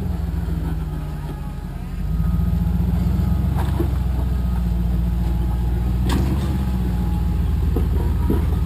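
Rock crawler's engine running at low, steady revs, growing louder about two seconds in, with a couple of sharp knocks over it.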